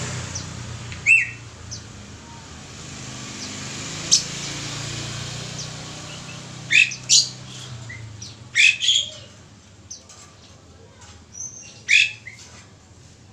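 Caged songbirds chirping: short, sharp high calls scattered irregularly, several coming in quick pairs, over a low hum that fades after the first few seconds.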